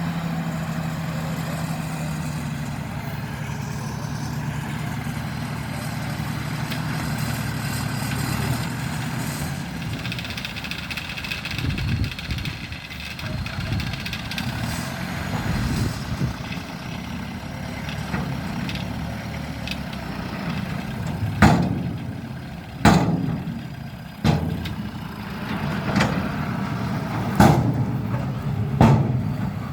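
A vehicle engine running steadily, with a low hum that fades after the first few seconds. In the last third come five sharp knocks.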